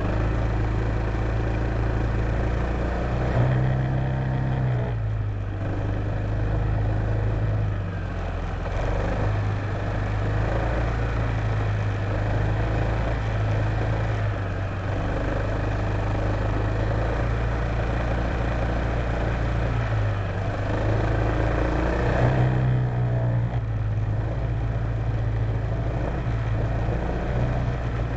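Honda PCX150 scooter's single-cylinder engine running under way, its pitch stepping up and down several times as the throttle changes, over a steady rush of wind and road noise.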